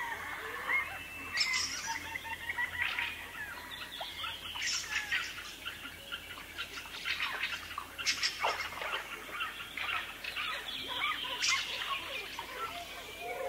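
Several wild birds calling and singing at once: a dense mix of chirps and short whistled notes, with one sharper, higher call recurring about every three seconds.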